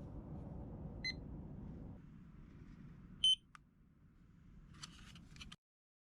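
Two short electronic beeps, the second higher and louder than the first, over a low steady rumble. A few light clicks follow near the end, then the sound cuts off abruptly.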